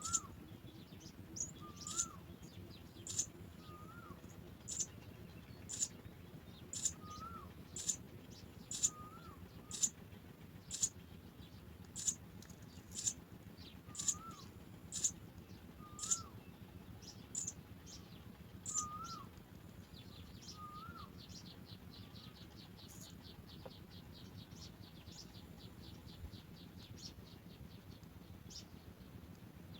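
House sparrow chicks chirping: sharp, high chirps about once a second, with a quick rapid run of chirps about two-thirds of the way through. A lower whistled note with an upward hook sounds now and then in the first two-thirds.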